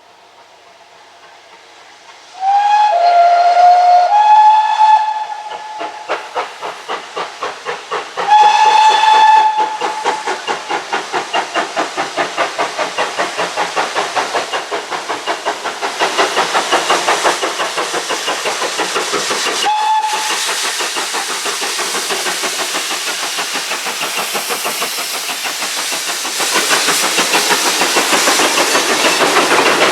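Steam locomotive whistling, one whistle stepping down and back up in pitch, then a second whistle. It then sets off, its exhaust chuffs quickening steadily over the hiss of steam, with a short toot about two-thirds of the way through.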